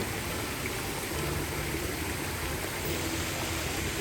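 Running water rushing steadily, an even, unbroken noise with no distinct events.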